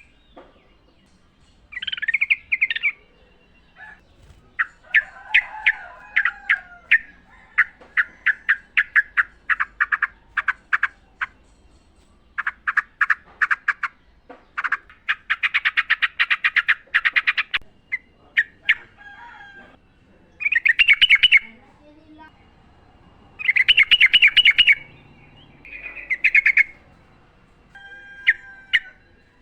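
Yellow-vented bulbul song: short bubbly warbled phrases alternating with long rapid trains of sharp chattering notes, several a second, repeated in bouts with brief pauses.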